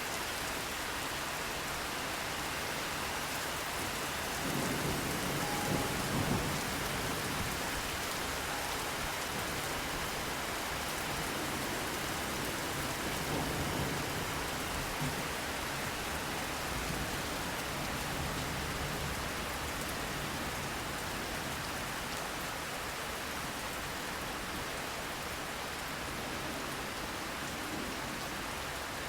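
Steady rain pattering, with low rolls of distant thunder rumbling about five seconds in and again around the middle.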